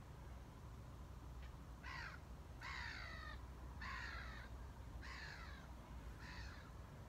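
A bird calling five times, about a second apart, each call sliding down in pitch.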